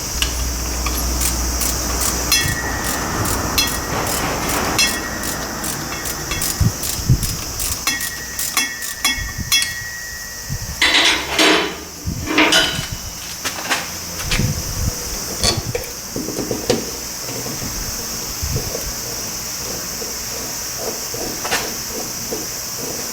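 Metal tools knocking and clinking against car parts: a string of sharp taps, some with a short metallic ring, through the first ten seconds or so, then a few louder knocks about eleven to thirteen seconds in and scattered taps after, over a steady hiss.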